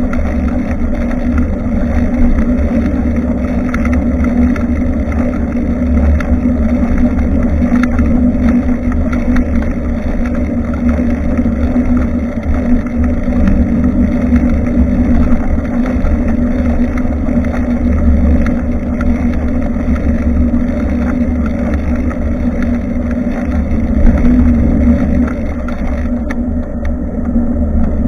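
Steady wind rumble and road noise picked up by an action camera's microphone on a moving bicycle.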